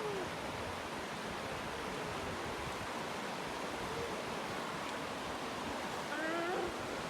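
Steady rushing of a fast mountain river flowing over stones, an even noise with no break. A faint call or two rises and falls near the end.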